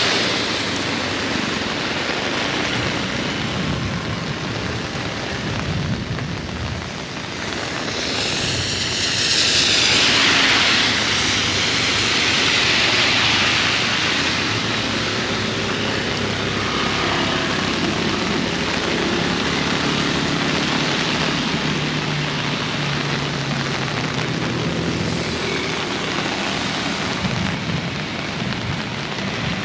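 Heavy rain falling steadily. A vehicle passes on the wet road about eight to eleven seconds in, and a low engine hum follows in the second half.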